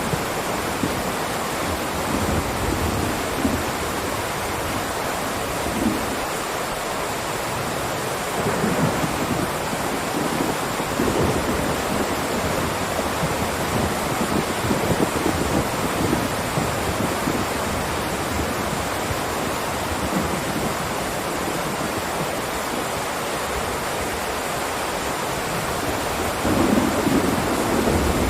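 Steady rain: a dense, even hiss, with irregular low rumbling swells, the strongest near the end.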